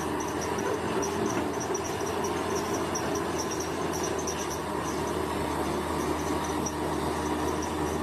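Bulldozer diesel engine running steadily, with insects chirping in fast repeated pulses.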